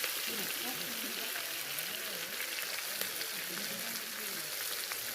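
Fish frying in hot oil: a steady sizzling hiss with small crackles and pops. A wavering, voice-like melody runs low underneath.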